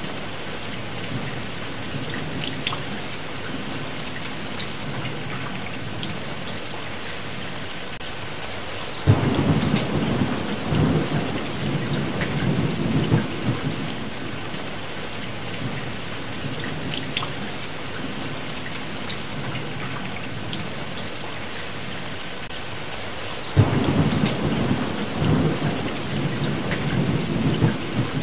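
Steady heavy rain with two rolls of thunder, the first breaking suddenly about nine seconds in and the second near the end, each rumbling on for several seconds.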